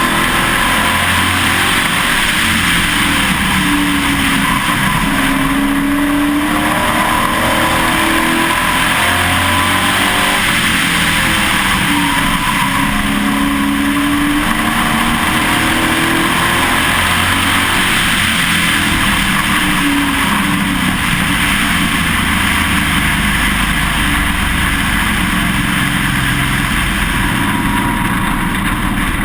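Pro Truck race engine running hard at racing speed, heard from on board the truck, its note rising and falling every few seconds as the throttle comes on and off.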